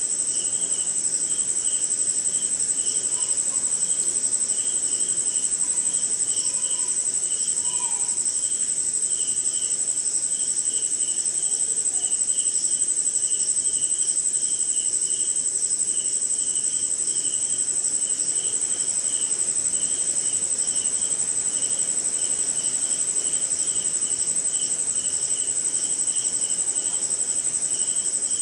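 Night chorus of crickets: a continuous high, steady trill, with a second insect chirping in a regular pulse a few times a second beneath it.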